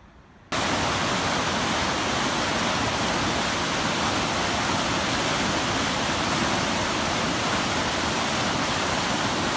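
Fast-flowing, flooded river water rushing steadily; it starts suddenly about half a second in.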